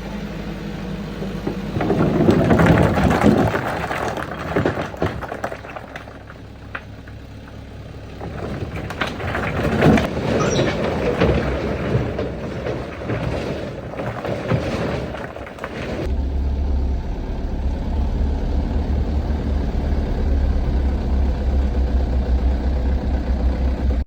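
Dump truck engine running, with long stretches of loud rattling and rumbling. About two-thirds of the way in, these give way to a steady low engine rumble.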